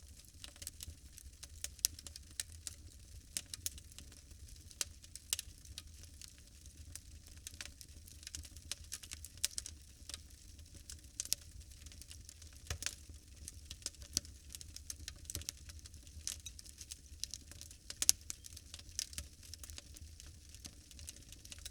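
Fire crackling: irregular sharp pops and snaps, many a second, over a steady low rumble. The loudest snaps come about 2, 13 and 18 seconds in.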